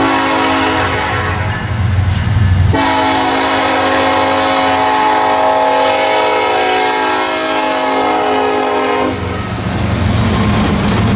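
Diesel locomotive air horn sounding a shorter blast, then a long blast of about six seconds that stops about nine seconds in. A low rumble of the passing train follows.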